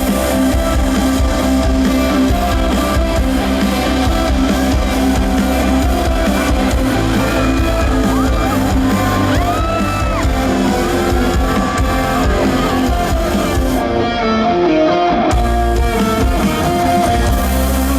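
Live band playing loud instrumental music led by guitar, with a short break in the high end about fourteen seconds in.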